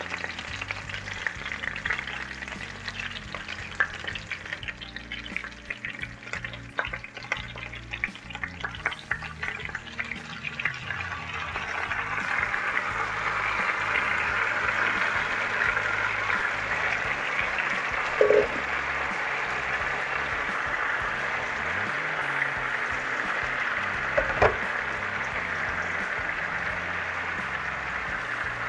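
Chicken and seasoned mixed vegetables frying in a little oil in a pot, stirred with many short scrapes and clicks for the first ten seconds or so. After that a steady sizzle grows louder and holds, broken twice by a short knock.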